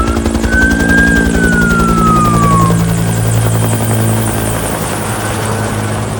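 Bell 212 Eagle Single helicopter with its T53 turbine running: a rapid beat from the main rotor over a steady engine note, with a high whine that falls in pitch in the first few seconds.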